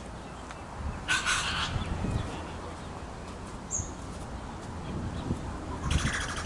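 A bird gives two short, harsh calls about five seconds apart, with a brief high chirp between them, over a steady low rumble.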